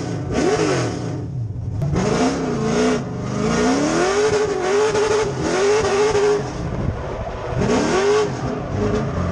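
6.0-litre LS V8 (LQ9) in a Nissan 240SX drift car, revving up and falling off again and again through a drift. It gives quick short blips at first, then a long climb that holds near the top of the revs for a couple of seconds, drops, and rises sharply once more near the end.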